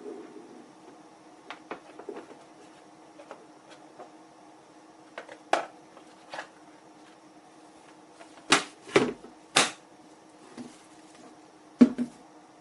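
Scattered clicks and knocks of objects being handled, over a faint steady hum. The loudest are three sharp knocks in quick succession about two-thirds of the way through and a double knock near the end.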